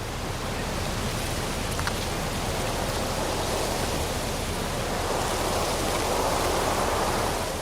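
Floodwater rushing steadily as a dense, even roar of water, swelling a little in the second half and fading near the end.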